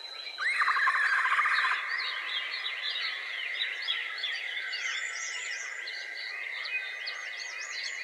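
Wild birds calling: a loud rattling trill that opens with a rising sweep about half a second in and lasts over a second, followed by many quick, higher chirps. Under it runs a steady high drone.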